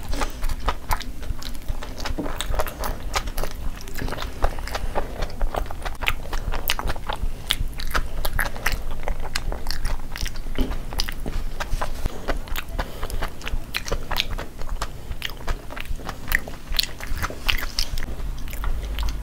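Two people eating close to the microphone: chewing and biting with many short wet mouth clicks and lip smacks.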